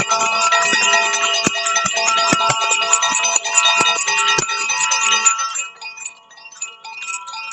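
Chimes being played: many metal tones ringing over one another, struck again and again. About five seconds in, the striking thins out and fewer, softer tones ring on.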